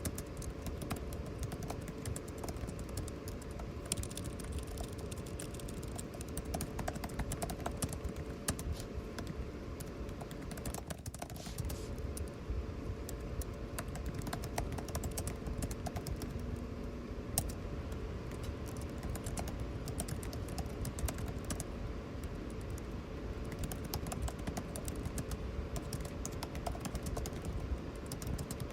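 Continuous typing on a computer keyboard, many quick key clicks, over the steady hum of air conditioning.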